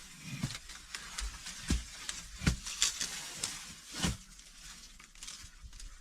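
Rustling with several dull knocks, three of them louder: hands handling and knocking building material.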